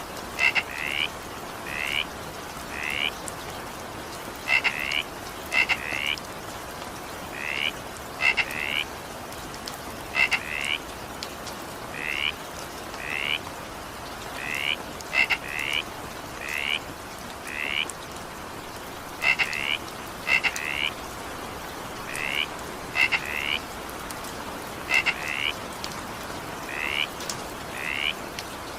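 A frog calling over and over in short rising croaks, often two in quick succession, about every second or two, over a steady hiss of rain.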